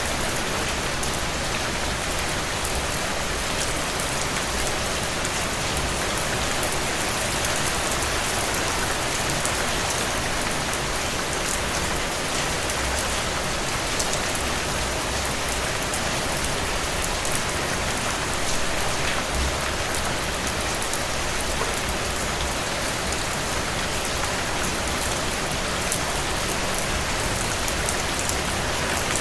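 Steady rain falling on a surface, an even hiss with many fine drop patters throughout.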